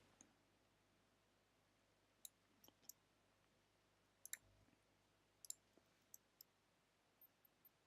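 Near silence broken by faint, scattered clicks, about ten of them, from someone working at a computer's keys or mouse.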